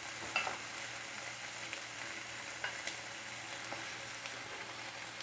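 Sautéed onions, peppers and tomato sauce sizzling steadily in a nonstick frying pan, with a few small pops scattered through.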